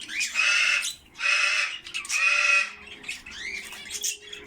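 Pet parrots squawking: three loud, harsh calls of about half a second each, then softer short chirps and twitters.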